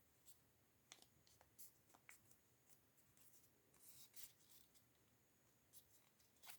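Faint, scattered rustles and crinkles of paper being handled and folded, with a few soft clicks.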